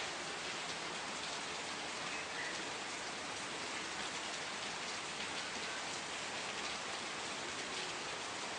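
Steady rain falling on a surface, an even hiss scattered with many small drop ticks.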